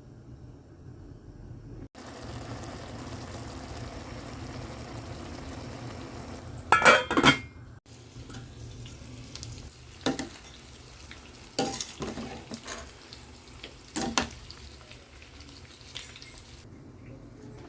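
Chicken frying in a pan, with a steady sizzle that starts about two seconds in. A metal utensil clatters against the pan: a burst of loud knocks near the middle, then three single knocks a couple of seconds apart.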